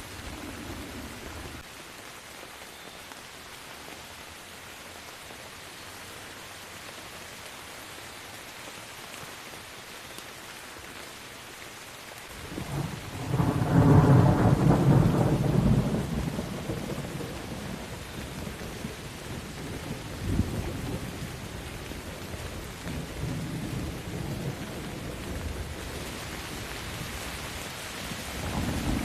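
Steady rain falling, with a long roll of thunder that builds about halfway through, is loudest for a few seconds, then rumbles on more softly and fades.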